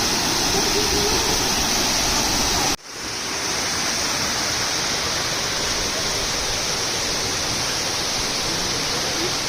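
Steady rushing noise of the Kanunga waterfall's falling water. It cuts out abruptly for a moment a little under three seconds in, then carries on slightly quieter.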